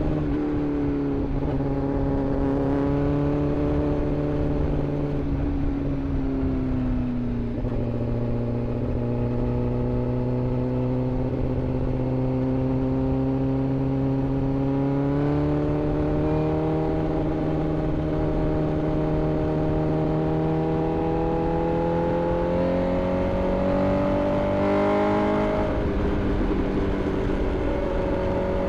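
Inline-four sportbike engine running at a steady cruise, its revs easing down slowly, then rising gradually, with a quicker climb and a sharp drop in revs near the end, over a rush of wind noise.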